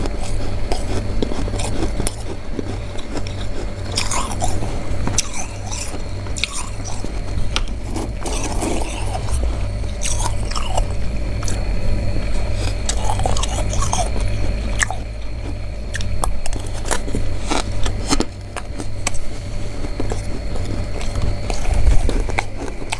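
Close-up crunching and chewing of freezer frost in the mouth: many irregular crisp crunches, over a steady low hum.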